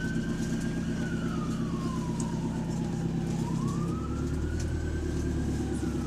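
Diesel bus engine running under way with a loud whine from a failing turbocharger, sliding up and down in pitch like a siren: falling over about two seconds, then rising again as the engine note changes about four seconds in.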